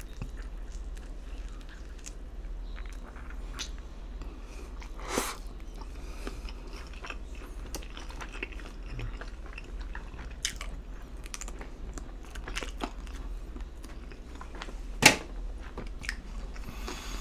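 Close-miked chewing of a buffalo wing dipped in blue cheese: steady wet chewing and small mouth clicks, with two sharper smacks, about five seconds in and near the end.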